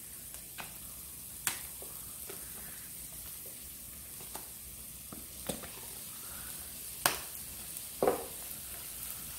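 Diced onion frying in olive oil in a skillet, a steady soft sizzle. A few sharp clicks and taps of utensils sound about a second and a half in and again around five, seven and eight seconds in, as minced garlic is spooned into the pan.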